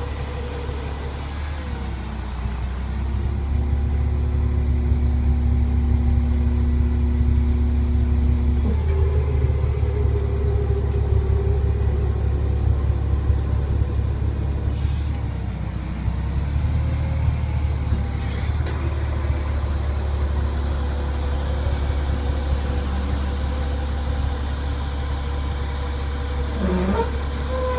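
International DT466E diesel engine of a 1997 International 4700 truck running steadily, a little louder from about three seconds in.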